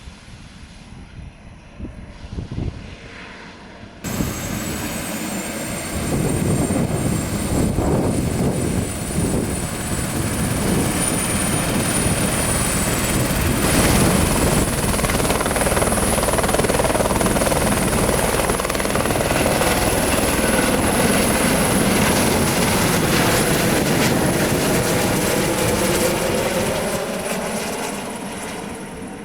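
Airbus H130 (EC130 B4) helicopter, its Safran Arriel 2D turboshaft whining high over the rotor noise. The sound jumps up sharply about four seconds in, stays loud and steady, and fades near the end.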